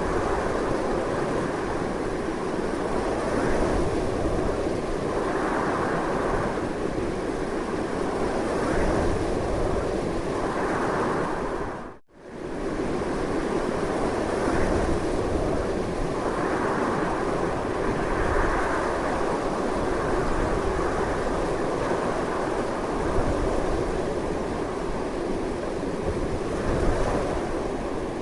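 Strong, continuous wind blowing, a steady rushing noise that swells and eases in slow gusts. About twelve seconds in it fades out for a split second and comes straight back, like a loop point in the recording.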